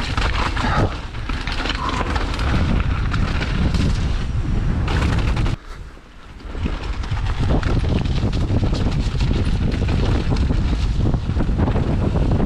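Wind buffeting the microphone of a camera on a mountain bike ridden fast downhill, with tyres on rough ground and the bike clattering and rattling over bumps. The noise drops away for about a second near the middle, then returns.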